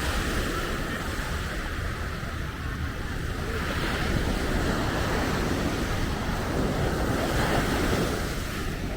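Ocean surf washing onto the beach, swelling about four seconds in and again near the end, with wind buffeting the microphone.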